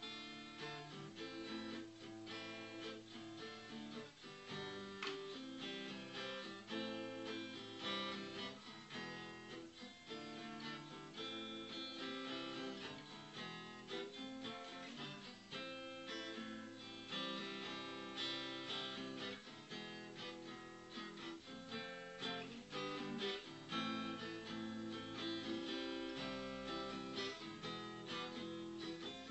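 Acoustic guitar being played, moving through chords with strummed and plucked notes.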